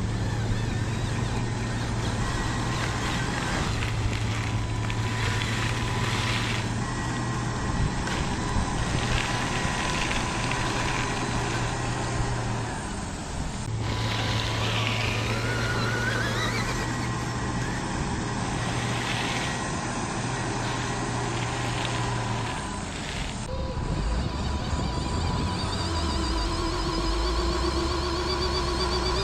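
Radio-controlled construction vehicles working: steady motor and electronic engine-sound running, with a brief rising whine about halfway through.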